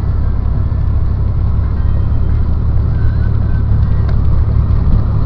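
Car driving on unplowed snowy streets, heard inside the cabin: a steady low engine and road drone.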